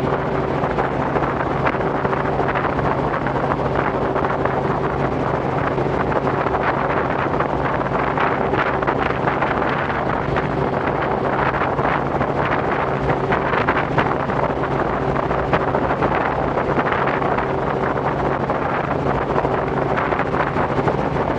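Robinson R44 helicopter in steady cruise: its piston engine and rotors give an even drone, with wind buffeting the microphone. The engine is running with low oil pressure as the helicopter heads back to base.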